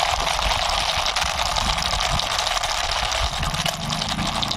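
A steady, fast mechanical rattle like a small engine running, as a toy is pushed along by hand.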